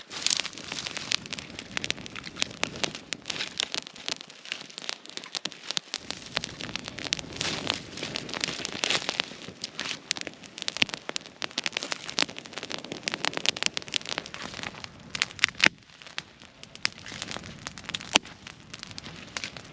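Small fire of dry resinous conifer twigs burning with dense, irregular crackling and popping, with a few sharper, louder pops in the last few seconds.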